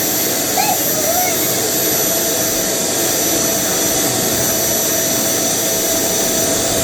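Two vacuum cleaners running together with a steady whine, their motors at full suction.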